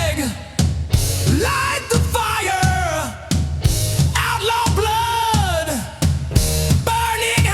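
Hard rock music with a drum kit and a sung, shouted vocal line whose phrases rise and fall about once a second.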